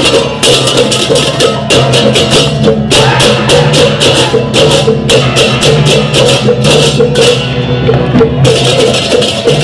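Balinese gamelan music, with a fast, even run of sharp strokes over steady held tones.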